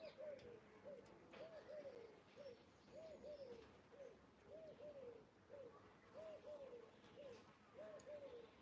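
A dove cooing faintly: a three-note coo, two arched notes close together and then a shorter one, repeated steadily about every one and a half seconds.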